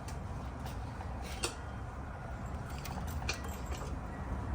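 Transmission jack being let down slowly under an engine and transmission, with a few sharp metallic clicks over a low steady hum.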